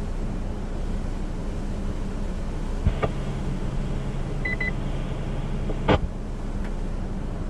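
Fire dispatch radio between transmissions: steady radio hiss and hum. About 3 s in the channel keys up with a click and a low steady tone, three short high beeps come in quick succession, and the carrier drops with a click about 6 s in.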